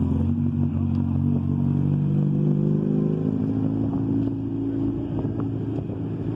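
Engine of a classic open two-seat roadster running as the car drives slowly past, a steady low engine note that fades over the last few seconds as it moves away.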